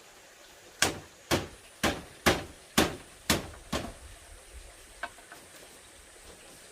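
A hand tool striking bamboo: seven sharp blows at about two a second, followed by a few lighter taps.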